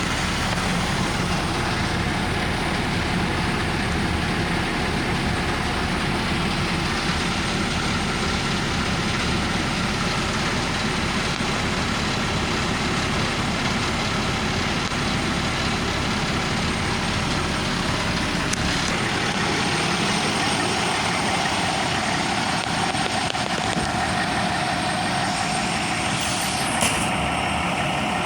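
A 2015 Peterbilt 320 roll-off hook truck running steadily. About two-thirds of the way through the low rumble drops off, and a brief sharp high sound comes near the end.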